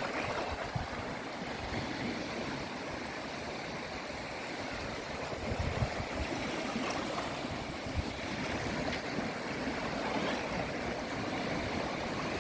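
Sea waves washing in steadily, swelling slightly about five seconds in.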